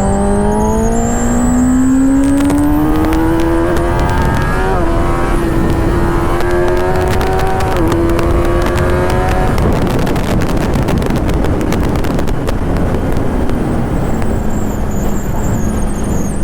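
A 1000cc inline-four superbike engine accelerating hard, its revs climbing over the first few seconds and holding high with two brief dips, before the engine note falls away about nine and a half seconds in. A steady rush of wind noise follows.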